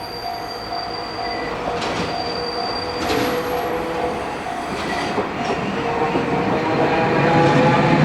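Japanese level-crossing warning bell ringing in a steady repeating pattern while a train approaches, its rumble growing louder through the second half.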